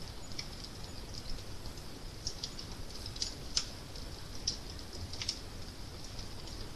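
Wood fire crackling: irregular sharp pops and snaps over a steady fine crackle and a low rumble.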